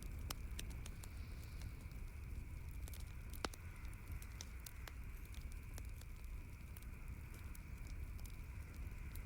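Campfire crackling, with scattered sharp pops over a steady low rumble of burning; one louder pop about three and a half seconds in.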